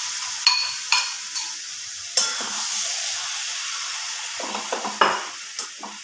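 Marinated chicken and fried onions sizzling in hot oil in a metal pan, with a spatula stirring and scraping through them and a few sharp knocks of the spatula against the pan.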